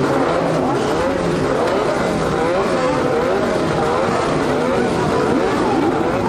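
Several early-1980s Formula One cars at racing speed, their engines revving up and dropping back again and again through gear changes, the pitches overlapping as the cars run close together.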